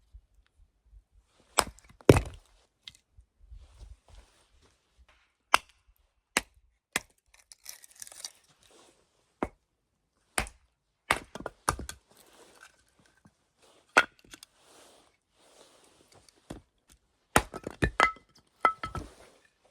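Small hand axe chopping and splitting wood into kindling: a dozen or more sharp strikes at irregular intervals, the loudest about two seconds in and a quick run of them near the end.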